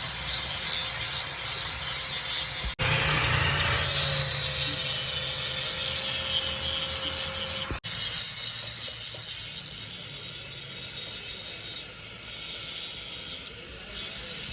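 Steady metalworking machine noise in the shop, in three short stretches cut together. The middle stretch carries a steady hum.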